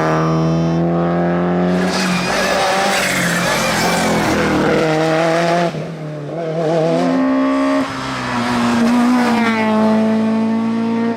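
Rally car engine running hard on a stage, its pitch falling and rising through gear changes and braking, with squealing tyres. The sound changes abruptly about six and eight seconds in.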